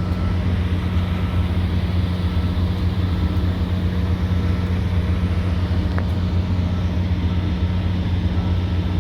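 Steady, loud, low machinery drone with a constant hum. A faint high tone comes and goes over it, and a single sharp click sounds about six seconds in.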